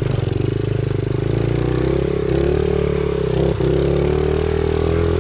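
Pit bike's small single-cylinder engine running at a fairly steady speed, its pitch shifting slightly, with a brief dip about three and a half seconds in.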